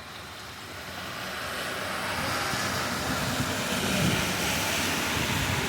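Heavy rain and wind, a steady rushing noise that swells from about a second in and is loudest near four seconds.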